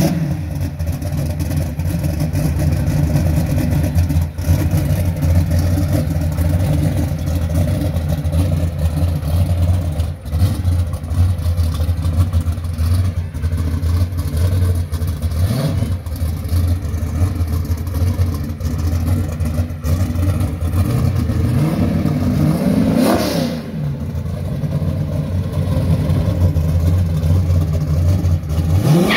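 Drag-racing Camaro's engine idling loud and steady, with a quick blip of the throttle about 23 seconds in and the revs starting to climb right at the end.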